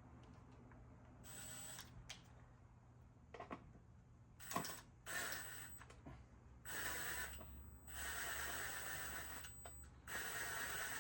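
Faint rattling and scraping of hand work on a lawnmower as a hard-to-reach nut is worked into place. The sounds come in several separate bursts of about a second each, growing longer and louder toward the end.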